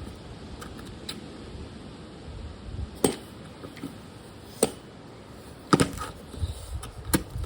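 Strong wind buffeting the microphone with a low rumble, broken by several sharp knocks at irregular intervals.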